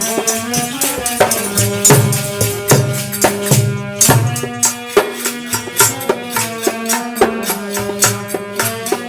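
Instrumental interlude of a rural Hindi devotional bhajan, with no singing. Held melody notes play over drum and rattling hand percussion in a quick, steady beat.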